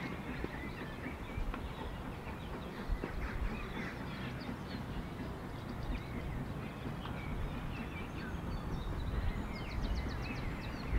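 Birds chirping and singing, many short calls and trills, over a steady low rumble.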